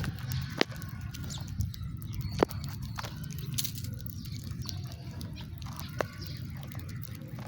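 House sparrows chirping faintly over a low steady rumble, with three sharp clicks, about half a second in, near two and a half seconds and at six seconds.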